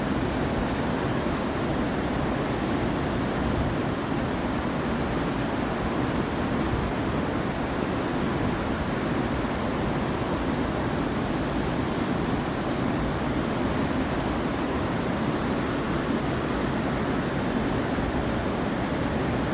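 Steady rushing of flowing mountain water, an even, unbroken wash of sound.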